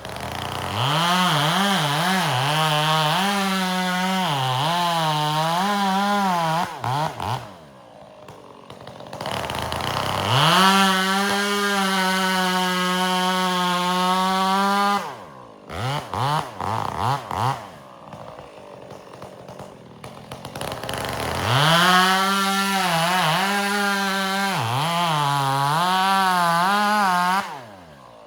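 Two-stroke chainsaw revved to full throttle three times, each run lasting about five or six seconds and dropping back to a sputtering idle in between. In the first and last runs the engine pitch dips and wavers as the chain bogs in the wood while bucking firewood; the middle run holds a steady high pitch.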